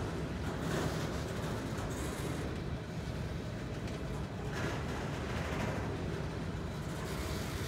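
Empty freight flatcars rolling slowly past, a steady low rumble of steel wheels on the rails with occasional brief rises in hiss.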